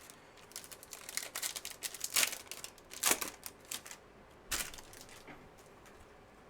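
Trading cards and a foil pack wrapper being handled: a quick run of crinkling, rustling and card clicks, with one last crackle about four and a half seconds in.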